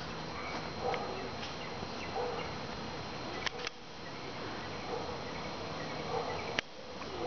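A swarm of honey bees buzzing steadily, with a few sharp clicks along the way.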